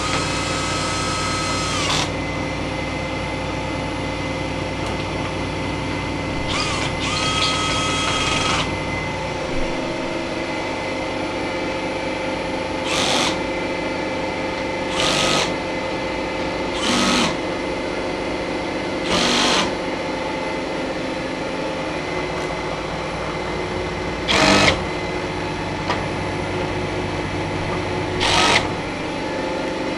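Steady machine-room hum, with a small electric motor whirring at a steady pitch twice, for about two seconds each time. In the second half come six short, sharp bursts of noise about two to four seconds apart.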